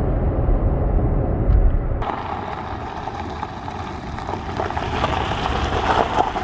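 Road noise of a pickup truck driving: a low rumble that changes abruptly about two seconds in to a lighter hiss with less rumble.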